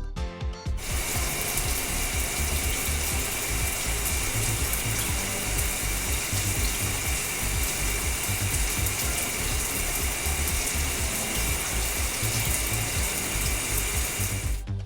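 Steady hissing water spray, a cartoon car-wash sound effect, starting about a second in and cutting off just before the end, with a low pulsing beat underneath.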